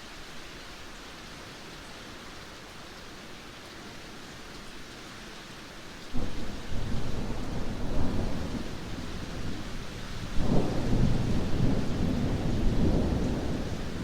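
Steady heavy rain, then about six seconds in a sudden loud clap of thunder breaks into a long low rumble, swelling again with a second crack about four seconds later.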